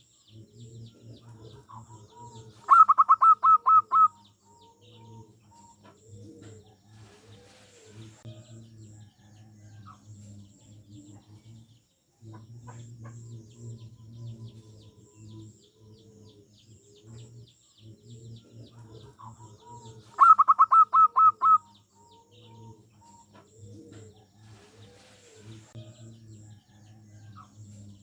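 Zebra dove (perkutut) song: a loud phrase of about seven quick staccato notes, heard twice, about three seconds in and again about twenty seconds in. Softer bird calls and a faint low hum run underneath.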